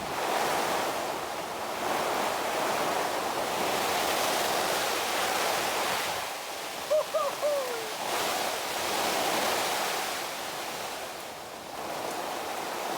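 Storm-force wind gusting hard, a steady rush that swells and eases in surges. About seven seconds in there is a brief high squeak with a few short falling notes.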